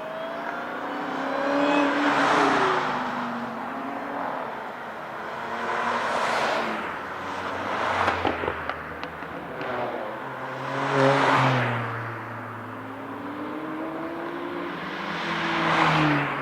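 Track cars passing one after another at speed, about five in all, each engine note swelling and falling away with its pitch sliding. A short run of sharp crackles comes about eight seconds in.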